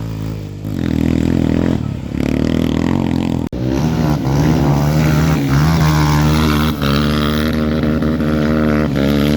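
Dirt bike engine revved hard in neutral, the pitch rising and falling in blips. After a brief cut-out about three and a half seconds in, it climbs and is held high.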